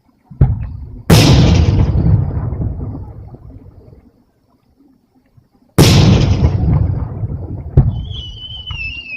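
Aerial fireworks shells bursting: two big booms, about a second in and about six seconds in, each trailing off in a long rumbling echo over two to three seconds. Smaller sharp cracks come just before the first boom and about eight seconds in.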